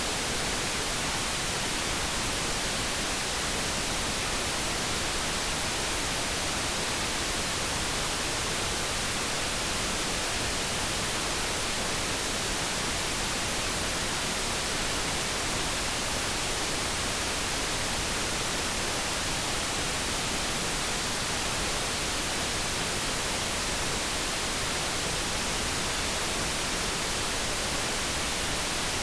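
Steady synthetic light brown noise: an even, unchanging hiss with no distinct tones or events.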